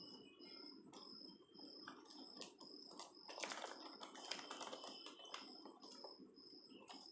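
Faint scattered clicks and taps over a short, high, even-pitched chirp that repeats steadily about three times a second.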